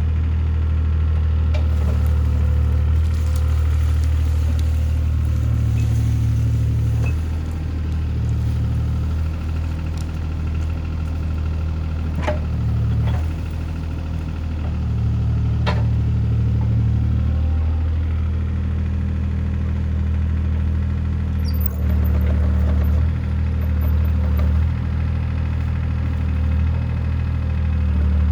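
Mini excavator's diesel engine running steadily, its note shifting a few times as it works. Two sharp knocks stand out around the middle.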